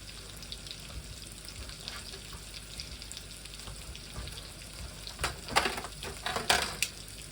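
Leftover cubed potatoes and onion sizzling steadily as they fry in a pan. A few short knocks and clatters come near the end.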